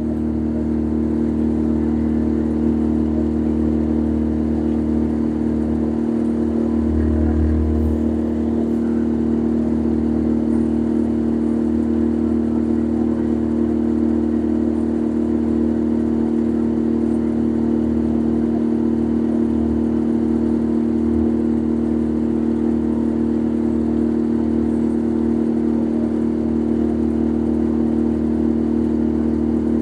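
Boat engine running steadily, a constant even drone that holds the same pitch throughout.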